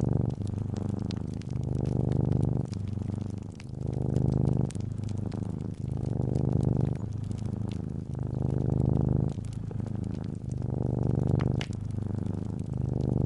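A cat purring close up, swelling and easing in a steady rhythm about once a second as it breathes in and out, over scattered small pops and crackles of a wood fire.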